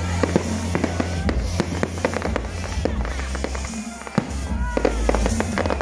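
Fireworks display: a rapid, dense run of bangs and crackles from bursting aerial shells, over background music.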